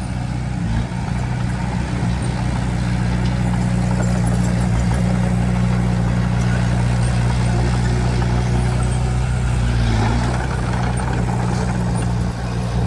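Diesel engine of a heavy earthmoving machine running steadily with a deep, even note.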